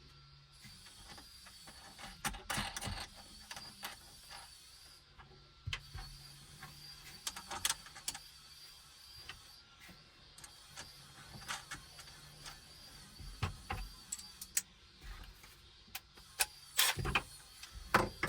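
Irregular knocks, clicks and clunks of panels and hardware being handled and fitted inside a car, the loudest cluster near the end, over a faint steady high-pitched whine.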